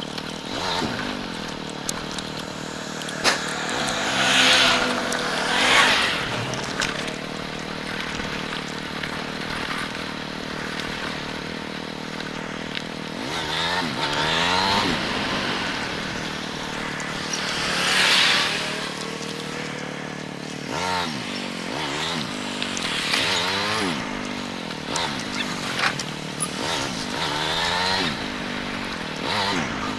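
Motorcycle engine running under way, its revs climbing and dropping again and again through the second half as the throttle is worked and gears change. Two loud rushing swells stand out, one a few seconds in and one just past the middle.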